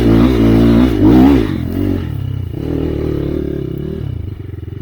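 Enduro motorcycle engine revving under throttle, its pitch rising and falling, then easing off about a second and a half in to a lower, quieter, pulsing run.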